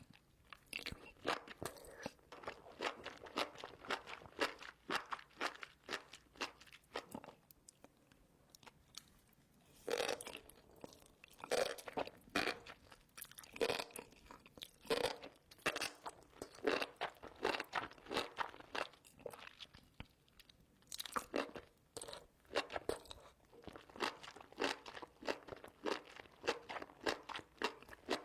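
Spicy enoki mushrooms being chewed: a run of crunchy bites several times a second, with a quieter stretch about a third of the way in.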